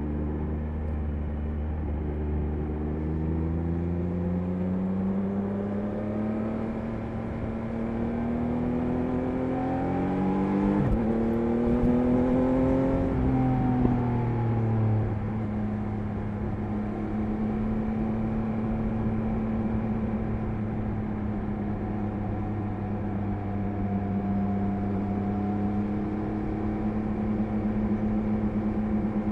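Triumph Speed Triple 1050 RS motorcycle's inline three-cylinder engine under way: the engine note climbs slowly for the first dozen seconds, with a short break about eleven seconds in, drops back over the next couple of seconds, then holds a steady cruising note. Wind and road noise run underneath throughout.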